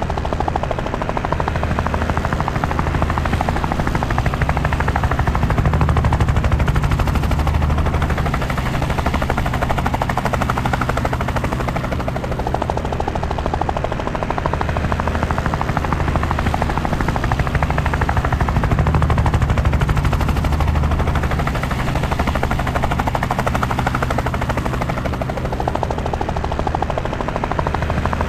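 Helicopter rotor and engine noise heard from on board: a steady, rapid chop of the blades over a low hum, swelling and easing slightly every several seconds.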